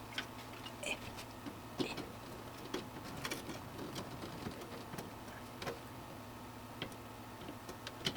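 Scattered small plastic clicks and taps of PC power cables and a connector being handled and pushed into place inside a computer case, over a faint steady low hum.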